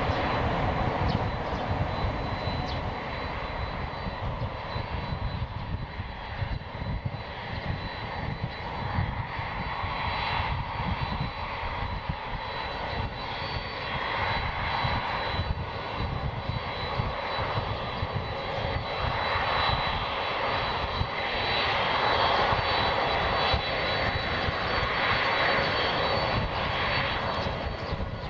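Jet engines of a Boeing 767-300ER airliner running: a steady rumble with a thin, high, even whine, getting somewhat louder in the last third.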